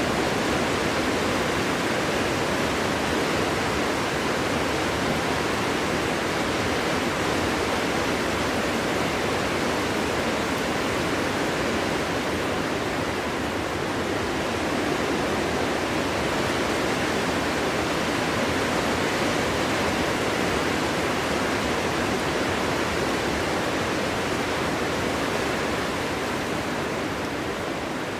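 Strong, steady wind rushing through a forest, an even roar without gusts or breaks.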